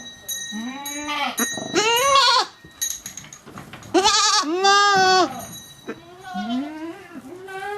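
Goats bleating: about four wavering calls one after another, the loudest about four seconds in.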